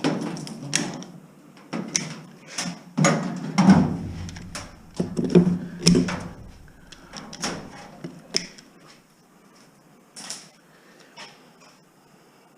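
Hands-on demolition work, likely wire and pipe being pulled loose: a busy run of knocks, scrapes and clatter for about eight seconds, then a few separate knocks.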